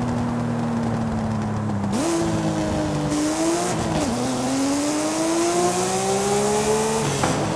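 Porsche Speedster's flat-six engine under way: revs sag slowly, then pick up sharply about two seconds in, dip briefly near four seconds and climb steadily under throttle before falling off near the end, with a rush of noise while it pulls.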